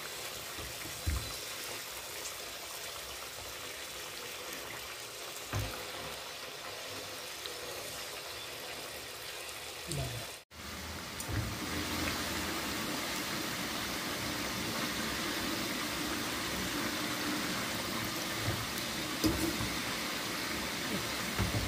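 Chicken pieces deep-frying in hot oil, a steady sizzle. After a brief break about halfway through it turns louder and brighter as the pieces are turned with a metal slotted spoon, with a few light knocks of the spoon against the pan.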